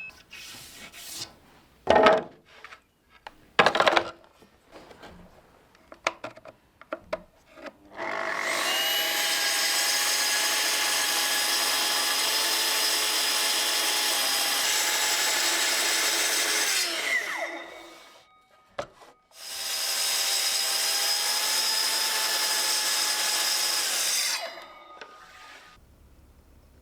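Electric power tool running in two long runs, the first about nine seconds and the second about five, with a steady motor whine over a rasping noise. The pitch sags and winds down as the first run ends. Scattered handling knocks and clicks come before.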